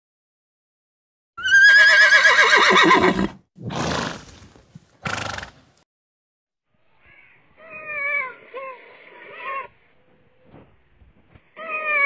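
A horse whinnies: one loud, long, quavering neigh that falls in pitch, followed by two short snorts. After a pause come a few shorter, wavering calls from another animal.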